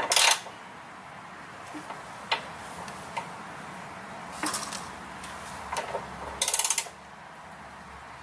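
Metal hand tools and steel parts clanking and clinking while being handled: a loud clatter at the start, a few light ticks, and a longer rattle near the end.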